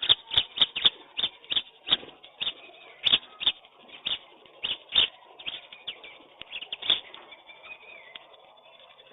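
Pigeons and other birds pecking at scattered grain: a quick run of sharp taps for the first few seconds, then single taps at scattered intervals.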